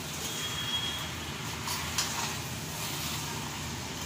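Steady hiss of chicken, potatoes and raw rice frying in ghee in a metal pot, with a couple of faint scrapes as a spatula stirs the rice in, about two seconds in.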